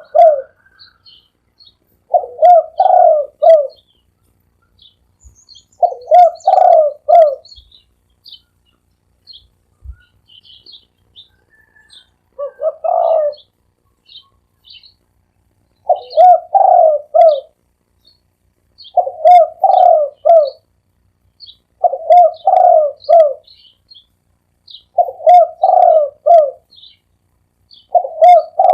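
Spotted dove cooing, a loud phrase of about three low coo notes repeated roughly every three seconds, eight times over. Faint high chirps of small birds come in between the phrases.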